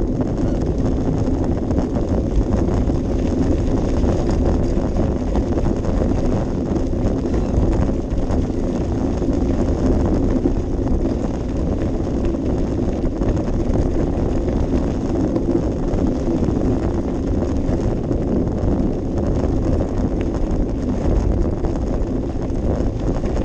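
Steady wind buffeting and low rumble on a GoPro Session's small microphone, loud and unbroken, with no separate events standing out.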